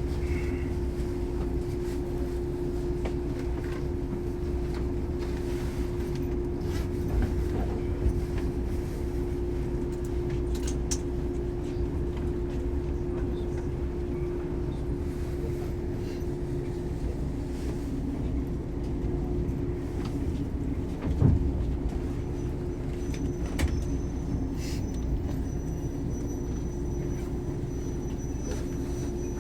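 Shinano Railway 115 series electric train running, heard from inside the car: a steady low rumble from the bogies and motors under a constant hum. There is a single thump about two-thirds of the way through, and a faint thin high whine comes in after it.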